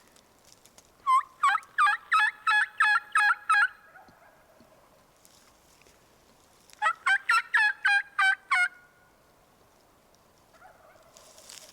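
Turkey yelping: two loud series of evenly spaced notes, about three a second, the first about a second in and the second near seven seconds.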